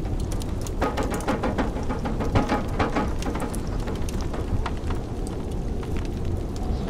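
Wood fire crackling and popping in a fireplace, over a steady low rumble of blizzard wind. The crackles come thickest from about a second in to about three seconds in.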